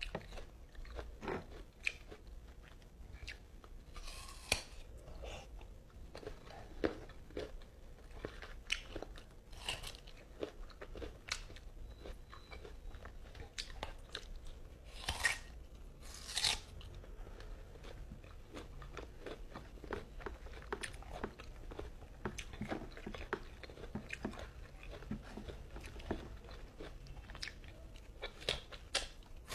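Close-up mouth sounds of eating mango: steady chewing and wet smacking with many small clicks, and a few louder noisy bursts along the way.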